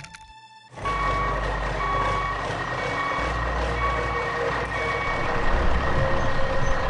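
A truck's reversing alarm beeping about once a second, five beeps, over the steady rumble of its engine.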